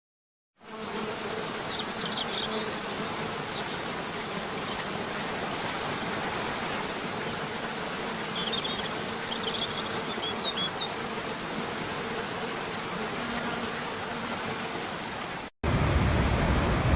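Steady rush of falling water with a faint steady hum under it, and a few short high bird chirps about two seconds in and again around nine to eleven seconds. Near the end it cuts suddenly to a louder, duller rush.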